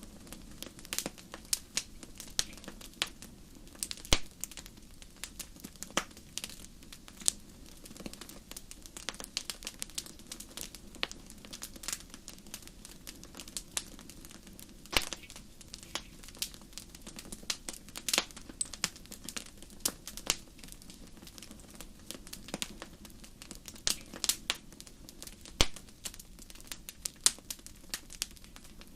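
Wood fire crackling in a fireplace: a steady low hiss with dense, irregular sharp pops and snaps, a few of them louder.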